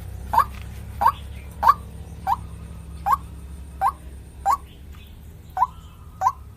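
White-breasted waterhen (ruak-ruak) calling: a short rising note repeated about every two-thirds of a second, nine times, with a brief pause before the last two. A faint steady low hum runs underneath.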